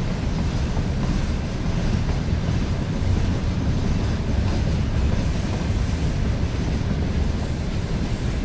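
Freight train making a steady, heavy low rumble, with no sudden events.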